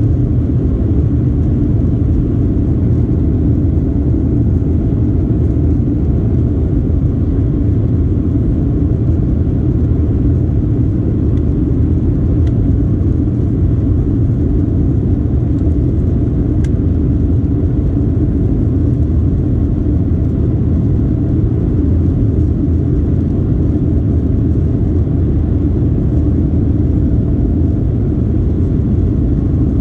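Steady low rumble of an airliner cabin in flight, the engine and air noise holding even throughout.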